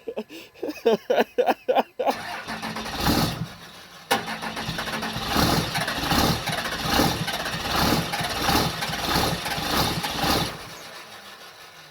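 24-valve Cummins 5.9 L inline-six diesel being cranked on a cold start, catching and running roughly with uneven pulses about twice a second as it struggles to stay lit. The sound fades away near the end as the engine fails to keep running.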